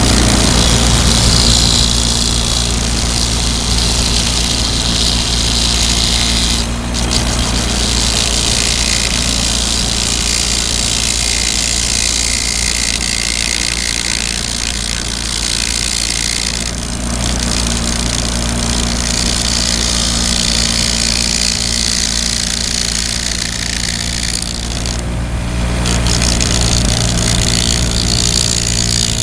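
Ryobi bench grinder motor running steadily while hand-held metal snips scrape and shave the edge of an aluminum blank spinning on its shaft, cutting it down lathe-style. The high scraping hiss breaks off briefly three times as the snips come away from the metal.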